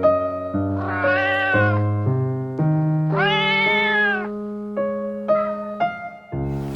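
A domestic cat meowing twice, two long rising-then-falling meows about two seconds apart, over background piano music.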